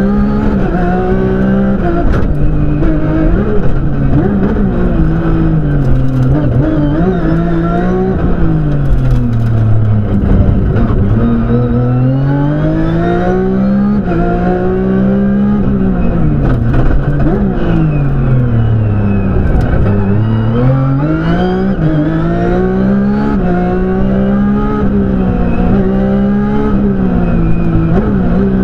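Porsche 997 GT3 rally car's flat-six engine heard from inside the cabin at full stage pace, revving up through the gears in a run of rising pitches and dropping back under braking. The revs fall right down twice, about ten and twenty seconds in, before climbing again.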